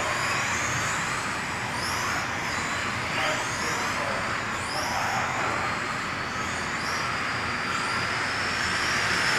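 Electric RC race cars running on a carpet track, their motors and gearing giving short rising whines about once a second as they accelerate out of the corners, over a steady noise.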